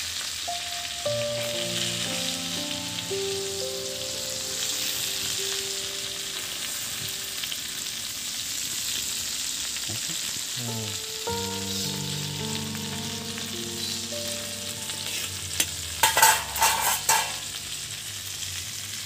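Chicken breast pieces sizzling steadily as they fry in a pan. A few louder clatters of a utensil against the pan come about 16 seconds in.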